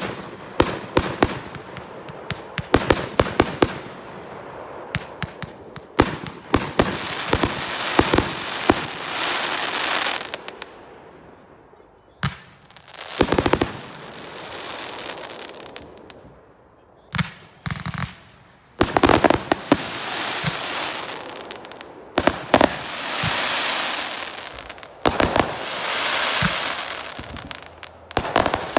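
Consumer fireworks going off: clusters of sharp bangs from shots and bursts, alternating with noisy crackling stretches a second or two long, with brief lulls between volleys.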